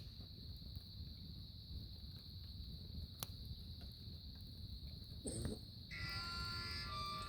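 Insects, crickets, trilling steadily in one constant high pitch, faint over a low rumble, with an odd single click. Music fades in near the end.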